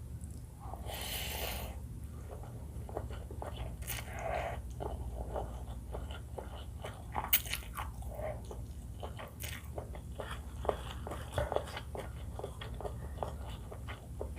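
Close-miked mukbang eating sounds: a person biting and chewing food with crisp crackles and clicks, the loudest snaps about seven and eleven seconds in. A steady low hum runs underneath.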